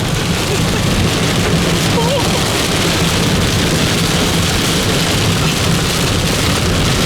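Large hailstones and rain hitting a vehicle's roof and glass from inside the cabin, a dense, steady pelting of impacts.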